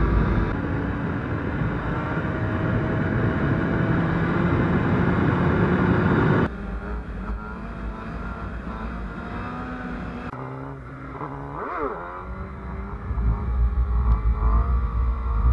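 2014 Suzuki GSX-R750's inline-four engine running under way with heavy wind noise, its pitch slowly climbing as the bike gains speed. The level drops suddenly about six seconds in to a quieter running engine. About twelve seconds in, a quick throttle blip sends the revs shooting up and straight back down, and the engine gets louder again under acceleration near the end.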